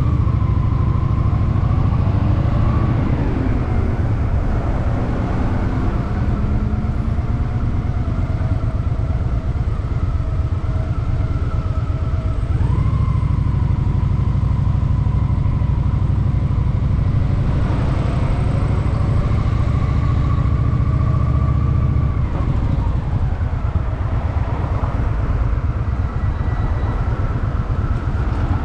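Honda Shadow VT750's V-twin engine running at low revs in city riding. Its low rumble grows heavier for a stretch in the middle, then eases off again.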